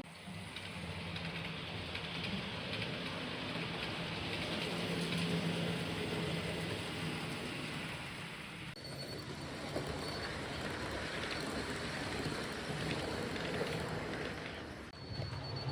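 Model TEE RAe electric train set running along the track: a steady rolling rush of wheels on rail over a low motor hum, with an abrupt change about nine seconds in and again near the end.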